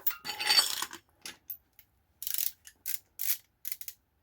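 Steel sockets and a ratchet handling: a second-long metal clatter, then a run of short, uneven ratcheting strokes about two seconds in, as sockets are tried on the brake caliper bracket bolts.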